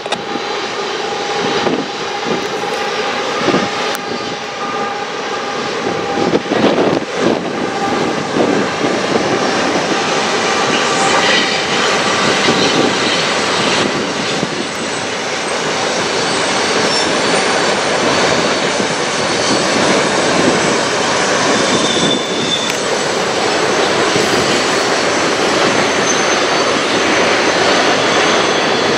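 Freight train passing, led by two CN GE diesel locomotives with their engines running steadily, followed by the continuous rumble of the rolling freight cars.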